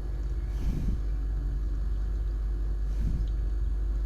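Refrigerator compressor running with a steady low hum. The repairman is waiting for it to warm the condenser tubes, which tells him whether there is refrigerant in the system.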